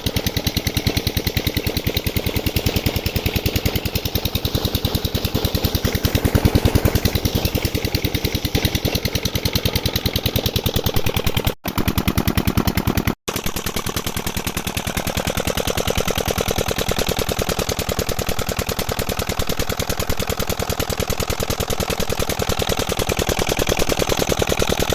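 Old diesel engine driving a tubewell water pump, running steadily with an even, rapid beat of firing strokes. The sound drops out briefly twice, about 12 and 13 seconds in.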